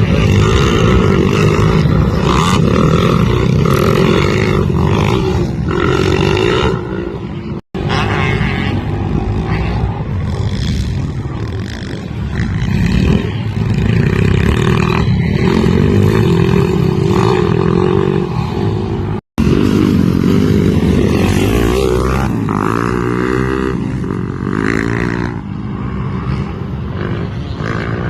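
Pit bike engine revving up and down under riding, pitch rising and falling over and over. The sound cuts out completely for an instant twice.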